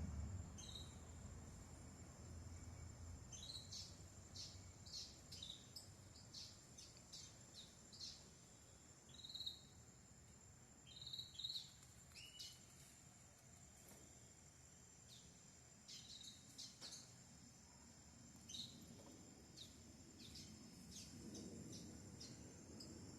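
Belgian canary giving faint, short chirps and call notes at irregular intervals, some in quick little clusters, over a steady, faint high-pitched tone.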